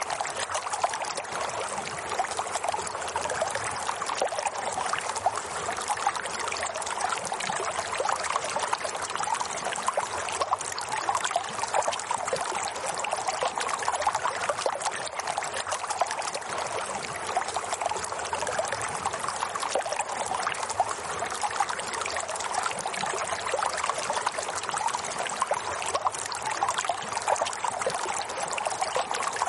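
Running water: a steady, dense trickling and splashing.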